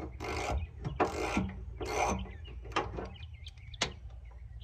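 Ratchet wrench worked in short rasping strokes, about one a second, tightening a new car battery in place. Birds chirp faintly in the background.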